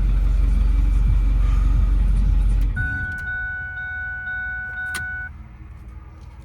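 Ford F250's 6.4-litre Power Stroke diesel V8 running, then switched off about two and a half seconds in. A dashboard warning chime then sounds, pulsing about twice a second for a couple of seconds, with a sharp click near the end of the chime.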